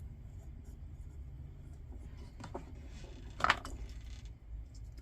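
Small parts being handled on a workbench: a few faint clicks, then one sharp tap about three and a half seconds in, over a low steady hum.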